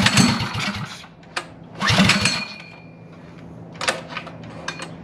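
Small single-cylinder minibike engine running at idle, revved in three short bursts.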